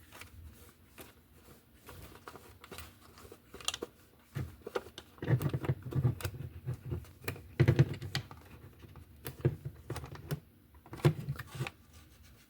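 Hard plastic clicking and tapping as a slot car and its plastic display case are handled, with a cluster of duller knocks in the middle.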